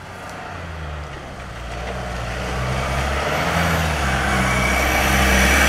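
Off-road vehicle's engine running with a low drone, growing gradually louder.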